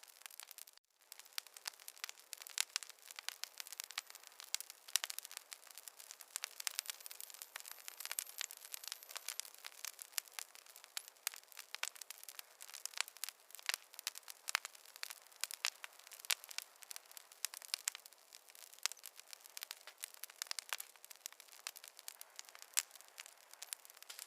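Wood fire crackling: a steady stream of irregular small pops and snaps over a faint hiss, with a brief dropout about a second in.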